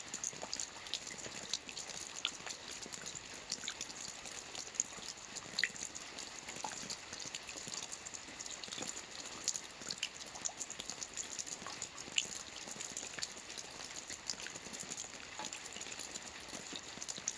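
Soft rain falling on a roof: a steady patter of many small drops, with scattered sharper drips ticking through it.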